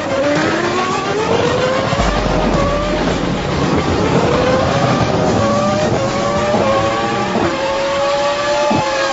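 Racing engines accelerating hard through the gears: the engine notes climb steeply again and again, each dropping back at an upshift, with more than one engine heard at once. Near the end one note falls away.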